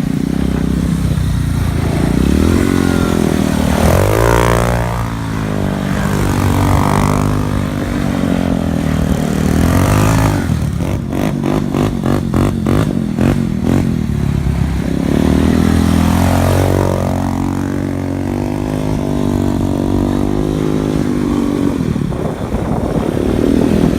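Quad and dirt bike engines revving up and down repeatedly. Around the middle there is a few-second stretch of rapid, stuttering pulses.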